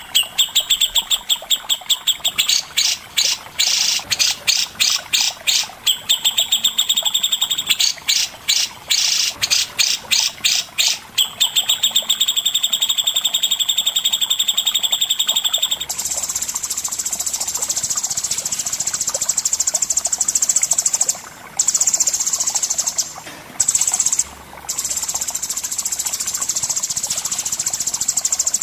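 Songbird training recording of birdsong. For about the first half it has rapid repeated chattering trills, alternating with sustained high notes. After that it becomes a continuous high-pitched buzzing trill, broken by a few brief pauses.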